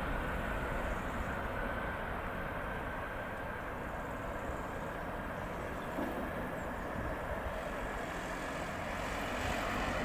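Boeing 787-8 Dreamliner's jet engines at takeoff/climb power as the airliner climbs away, a steady rumble with a faint whine slowly falling in pitch.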